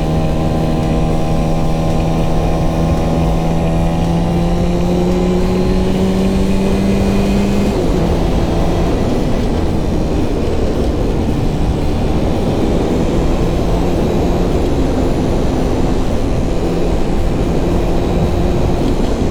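Honda CGL125 single-cylinder four-stroke motorcycle engine running under way, its pitch rising slowly for about eight seconds and then dropping suddenly. After the drop the engine runs lower, under a steady rush of wind noise.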